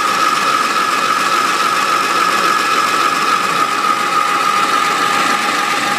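Rebuilt Triumph GT6 straight-six engine running steadily after more than 20 years dormant, with a constant high-pitched tone over the engine noise.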